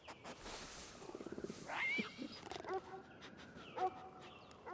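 Puppy and cougar cub calling to each other as they play: several short, high, squeaky calls and whines. There is a brief rapid rattle about a second in.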